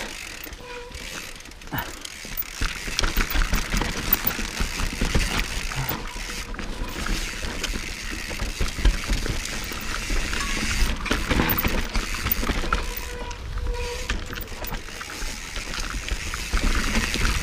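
Mountain bike rolling slowly down a steep, dry dirt trail: tyres popping and crackling over the ground, with the bike rattling and clicking throughout.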